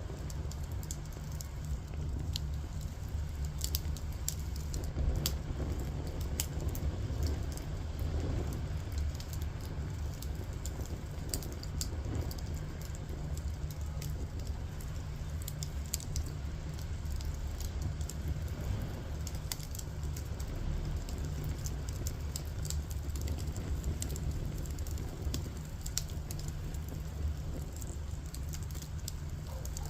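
Firewood burning, with a steady low rumble of the flames and frequent small irregular crackles and pops.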